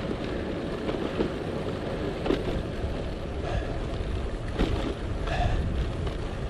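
Wind buffeting the microphone in a steady low rumble while riding a bicycle, with road noise and a few faint knocks.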